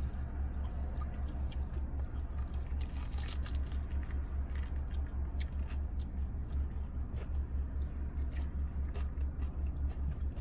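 Chewing a crunchy fried Korean corn dog, with small crisp clicks scattered through. A steady low hum runs underneath and is the loudest thing.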